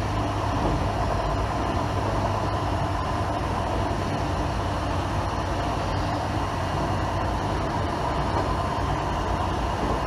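A 1980s passenger train running along the line, heard from inside at the front: a steady rumble of wheels on rail with a low hum and an even level.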